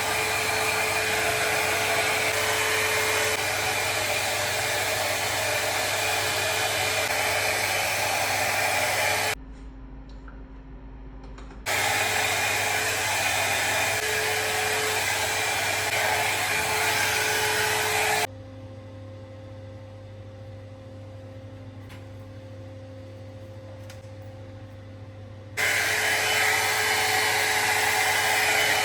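VGR 493 hot-air brush (hair dryer brush) running with a steady blowing whir. Twice it drops abruptly to a much quieter hum, once for about two seconds and once for about seven, then comes back at full strength.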